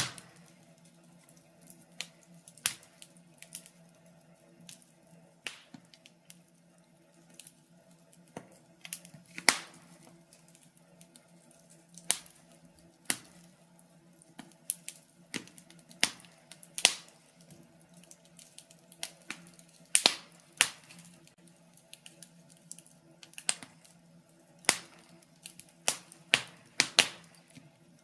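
Wood fire crackling in a fireplace: irregular sharp pops and snaps, one or two a second, over a faint steady low hum.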